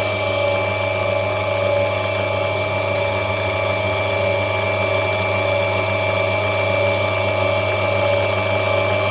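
Lapidary cutting machine running steadily as opal is rubbed back on its wheel, with a short hiss that stops about half a second in.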